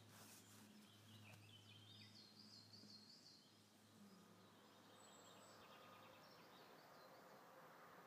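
Near silence: faint outdoor ambience with a bird singing faintly in short warbling phrases between about one and four seconds in, over a faint steady low hum.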